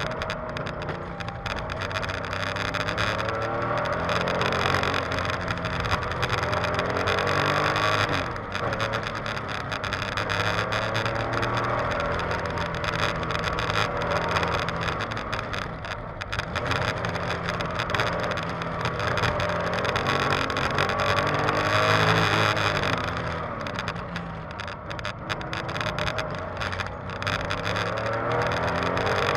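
1973 Porsche 911's air-cooled flat-six engine heard from inside the cabin, driven hard on a timed autocross run. It revs up under throttle and drops off briefly several times as the driver lifts and brakes for the cones.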